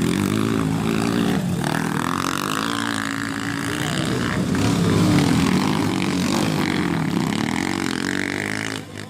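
Motocross bike engine running, its pitch rising and falling as it revs, with a brief dip in loudness near the end.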